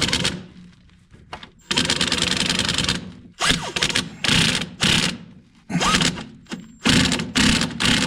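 Impact wrench hammering the flywheel bolts down on a Case 310 dozer engine, in a series of bursts: one long run of about a second, then five short bursts.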